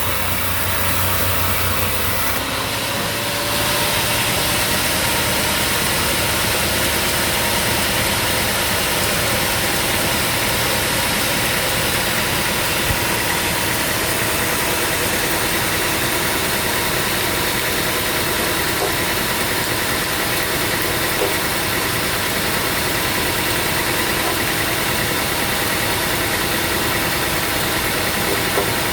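Sawmill machinery running steadily, an even dense noise with faint steady tones; a low hum drops out about two to three seconds in.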